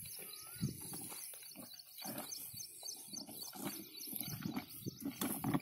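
A bird calling in a fast, even run of short high notes, about five a second, that stops about three and a half seconds in, with one curling call near the start. Under it, irregular low scuffs and knocks.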